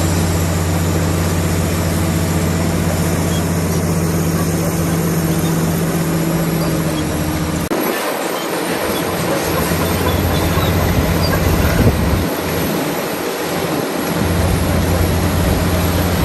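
Komatsu D65PX crawler bulldozer working: its diesel engine runs with a steady low drone, and the steel tracks clank and squeal. The sound changes abruptly about eight seconds in, after which the engine note is less steady.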